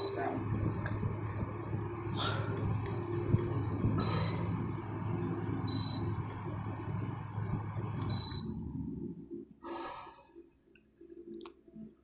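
Room air conditioner running with a steady hum while its control panel beeps four times, short high beeps a couple of seconds apart, as the setting is changed. About eight and a half seconds in the unit shuts off and its running noise stops, followed by a short rustle and a few faint clicks.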